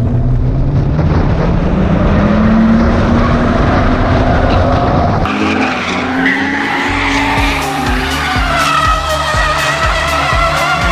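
Ford AU Falcon drift car's engine revving hard, with its tyres skidding through a drift. About five seconds in, the sound changes abruptly and music with a steady beat comes in over the car.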